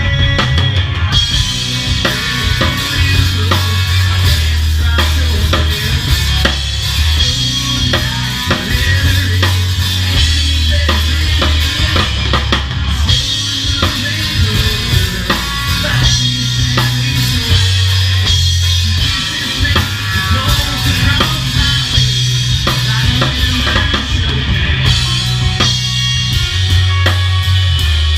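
Live rock band playing an instrumental passage with no singing. The drum kit is prominent, with bass drum and snare strokes over a low, shifting bass line.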